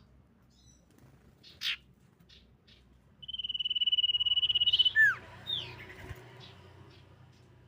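Common iora calling: a few faint short chirps and one sharp note, then a loud rapid trill held on one steady pitch for nearly two seconds, about three seconds in, followed by two quick down-slurred whistles.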